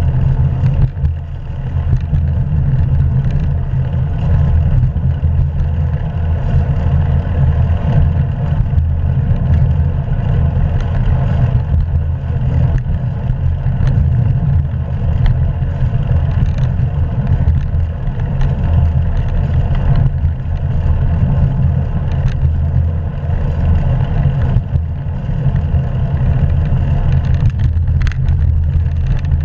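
Steady wind rumble and road noise from riding a bicycle, picked up by the GoPro's microphone: a loud, deep, unbroken roar.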